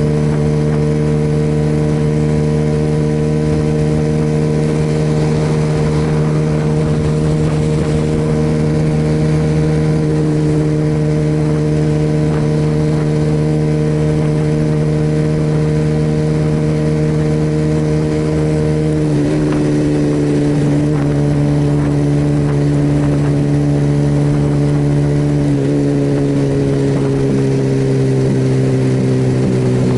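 Suzuki Yes motorcycle's single-cylinder engine running at a steady cruising speed. Its note drops in pitch about two-thirds of the way through and drops again near the end.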